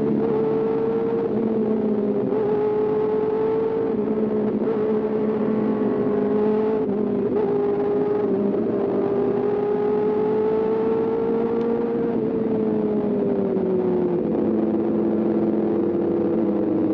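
Kawasaki ZX-4RR's inline-four engine held at high revs while riding, a steady high-pitched note with a few brief dips, easing lower in pitch about twelve seconds in, with wind rush underneath.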